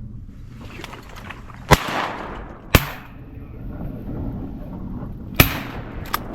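Shotgun shots at ducks: two sharp reports about a second apart, a third about two and a half seconds later, and a fainter report near the end.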